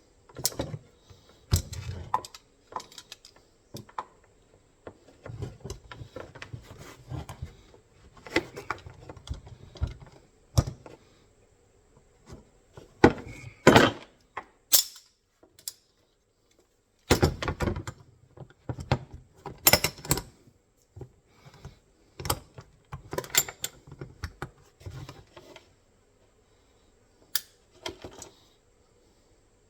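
MB-550 steel foothold trap being worked with channel-lock pliers to bend its frame: irregular metal clicks, clanks and knocks in bunches, with short quiet gaps.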